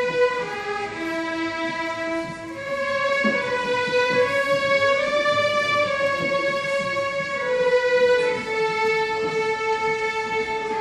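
Violin playing a slow melody of long held notes.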